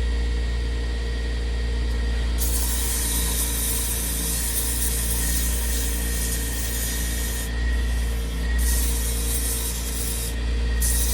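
Wood lathe running with a steady motor hum. From about two seconds in, a hissing rub of something held against the spinning curly cherry, which stops briefly twice.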